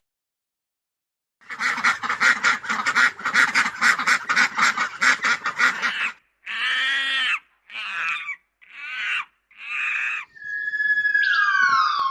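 An animal calling: a rapid run of harsh, pitched calls for about five seconds, then four separate calls. Near the end a smooth, gliding musical tone comes in.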